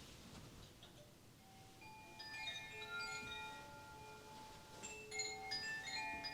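Metal chimes being run, a cascade of bright ringing notes at many pitches that overlap and ring on, starting about a second and a half in, with a second run of strokes about five seconds in.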